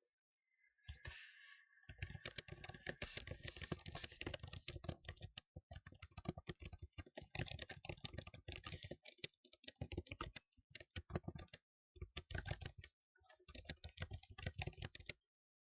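Fast typing on a computer keyboard: rapid clicking keystrokes in runs of a few seconds with short pauses between them, stopping shortly before the end.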